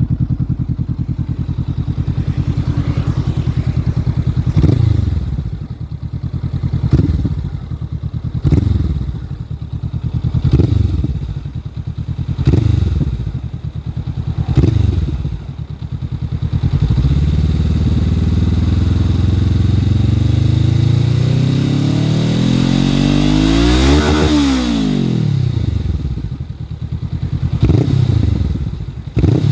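Honda CBR500R's parallel-twin engine breathing through a slashed stock exhaust: it idles steadily, then is blipped about seven times in quick succession, each rev rising and dropping back, followed by a longer rise and fall in engine speed and one more blip near the end.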